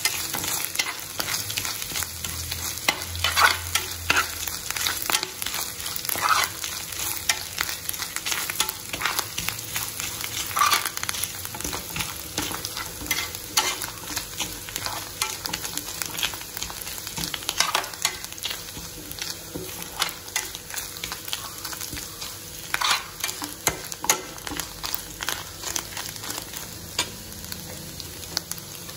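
Grated coconut, curry leaves and mustard seeds sizzling in hot oil in a metal pan, with a metal spoon stirring and scraping across the pan bottom every few seconds. The coconut is being fried until it turns brown.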